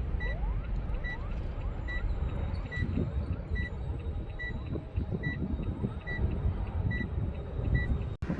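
Airbus A350-1000's Rolls-Royce Trent XWB engines at take-off thrust, heard from a distance as a steady low rumble. A short high beep repeats a little more than once a second over it, and the sound cuts off abruptly near the end.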